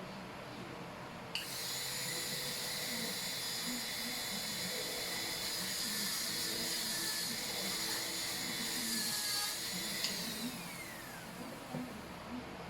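High-speed dental handpiece (dentist's drill) starting suddenly about a second in and running with a steady high-pitched whine for about eight seconds. It then cuts out and spins down with a falling whine.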